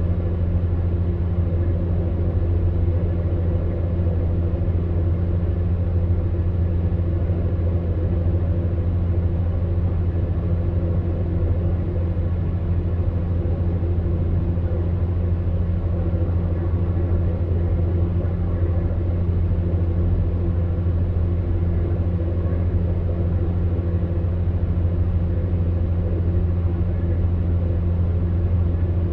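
Electric fan heater running steadily: an even, low hum with a soft whoosh of blown air that does not change.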